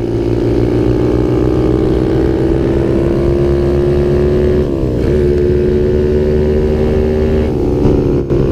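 Kawasaki KLX110 pit bike's small single-cylinder four-stroke engine, fitted with a Pro Circuit aftermarket exhaust, running under way. Its pitch climbs steadily, drops sharply about five seconds in as it shifts up a gear, then climbs again.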